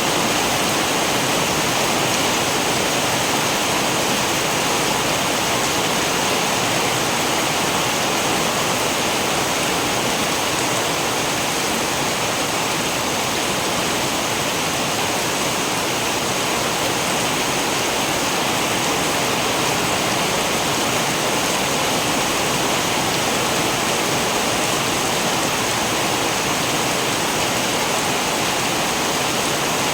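Steady rain, an even hiss that does not change throughout, with no thunder.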